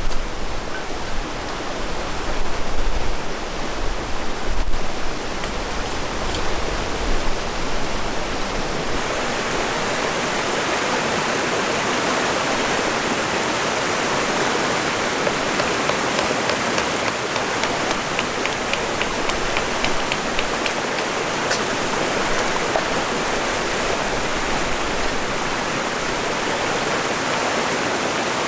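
River water rushing steadily. During the first several seconds, low gusts of wind buffet the microphone.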